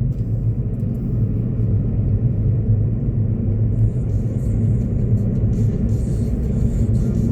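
Steady low road rumble inside a moving car's cabin, with a fainter tyre-and-wind hiss joining about halfway through.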